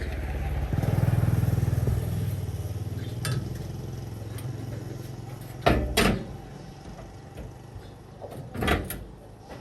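Four-wheeler's engine running, swelling about a second in and then fading away over the next few seconds. A few sharp knocks follow near the middle and near the end.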